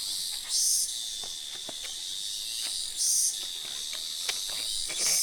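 Insects chirring in a steady high-pitched shrill that swells louder three times, about every two and a half seconds, with a few faint clicks.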